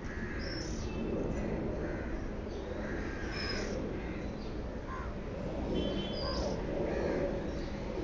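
Birds calling repeatedly: short, scattered calls and chirps, one after another, over a steady low background rumble.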